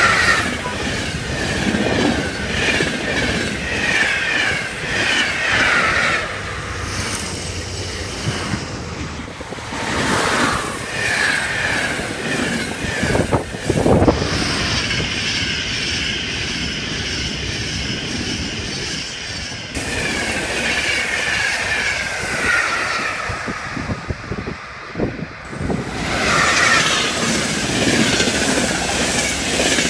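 Electric passenger trains rushing past close by at speed: a dense rolling rumble of wheels on rails with a high whine that slides down in pitch as each train goes by, in several separate passes cut one after another.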